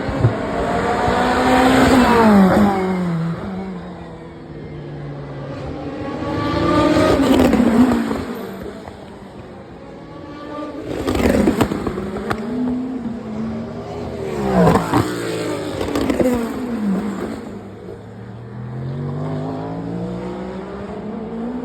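Race cars at full speed passing one after another, about five in all, each engine note rising as it approaches and dropping in pitch as it goes by. The last car is still approaching near the end.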